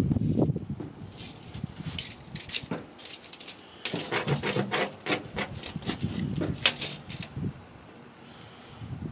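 Boards and tools being handled and shifted, rubbing, with scattered knocks and clicks, busiest in the middle.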